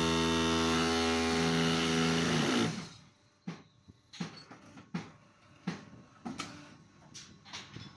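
Concrete block machine running with a steady multi-pitched machine hum that cuts off suddenly about two and a half seconds in, followed by a series of sharp, ringing knocks and clanks.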